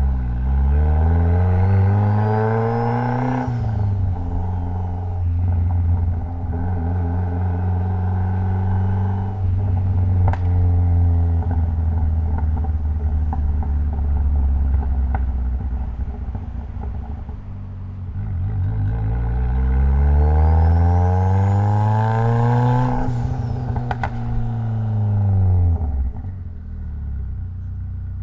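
Mitsubishi Lancer Evolution X's turbocharged 2.0-litre four-cylinder engine pulling hard twice, its pitch climbing steeply, holding steady between the pulls and dropping back after the second. A thin rising whistle rides over each climb, and sharp cracks come as the revs peak.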